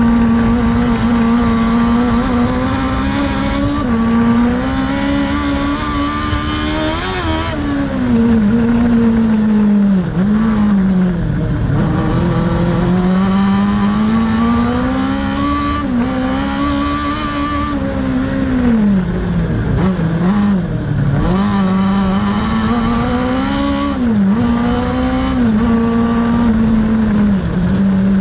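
Kartcross racing car's engine at full race pace, the revs rising and falling again and again as it accelerates, lifts and gears through the corners.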